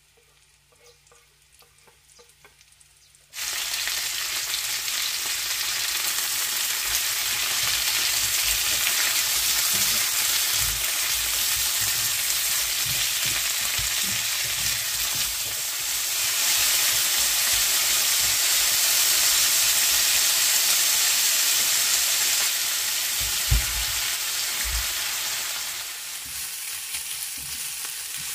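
Boiled bracken fern shoots and sliced onion sizzling as they fry in olive oil in a nonstick pan, stirred with tongs. The sizzle starts suddenly about three seconds in and then holds steady. Now and then the tongs knock against the pan, once sharply late on.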